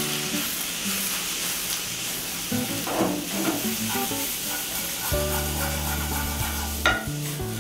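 Prawns sizzling in hot oil with fried shallots in a frying pan, stirred with a wooden spatula that knocks and scrapes against the pan now and then.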